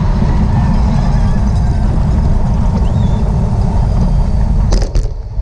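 Wind buffeting the microphone of a moving camera in a steady, heavy low rumble, with a few sharp clicks near the end.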